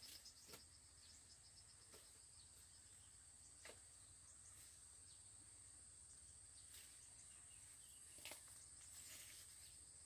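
Faint, steady high-pitched trilling of crickets or other insects, with a few soft clicks now and then.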